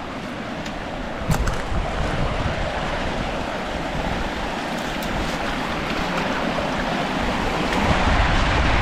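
Strong wind gusting across the microphone: a continuous rushing noise with low buffeting rumble that grows louder toward the end.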